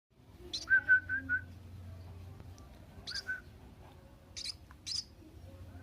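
A seven-day-old munia (emprit) chick calling in short, high chirps: a quick run of four near the start, a pair about three seconds in, and two more between four and five seconds.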